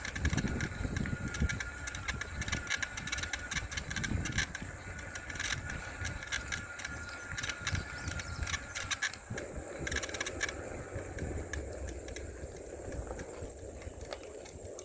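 Riding noise from an electric-assist bicycle: wind rumble on the microphone with frequent small rattles and clicks from the bike. A steady high whine runs for the first eight or nine seconds, then stops.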